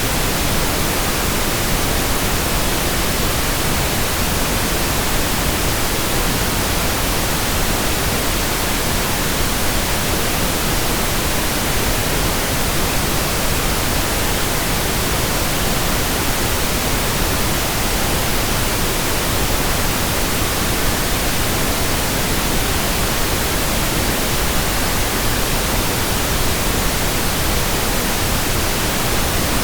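Pink noise: a steady, even hiss spread across the whole range, with no changes or events.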